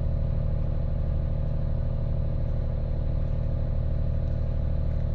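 An engine running steadily at a constant speed, a low, even drone with a fine rapid pulse.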